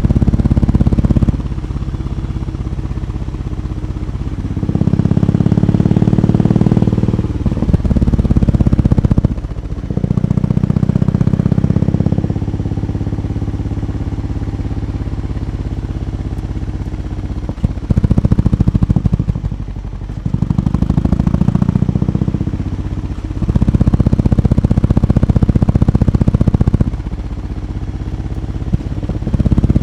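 BMW R 18 B's big air/oil-cooled boxer twin, heard through its exhaust, revved again and again. Each time it holds higher revs for one to three seconds, then drops back to a lumpy idle.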